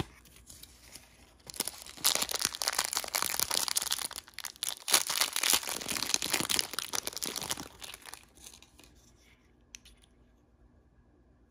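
Crinkly packaging wrapper being torn open and crumpled by hand. The dense crackling starts about a second and a half in, goes on for about six seconds, then stops, leaving only a few faint clicks.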